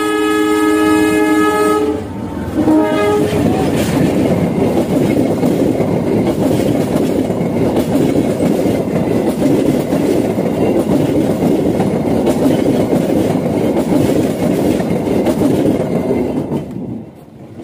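Diesel locomotive's multi-note horn held for about two seconds, then a short second blast. The locomotive and its passenger coaches then pass close by with a loud, steady rumble, which drops away sharply near the end.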